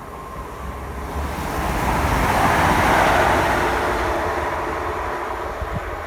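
A train passing the station, its rushing noise swelling to a peak about halfway through and then fading away.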